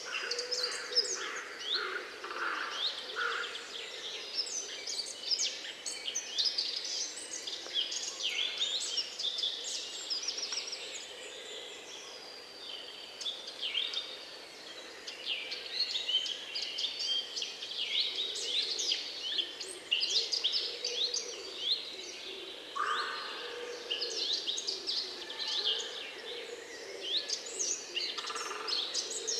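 Many songbirds singing at once: a dense chorus of quick, overlapping high chirps and trills that thins briefly about halfway through, with a few lower calls late on.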